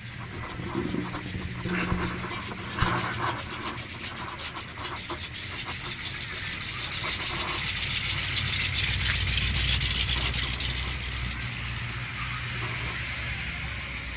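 A car engine running with a rapid, pulsing exhaust note that swells to a peak about nine seconds in and then fades, as a car drives past close by.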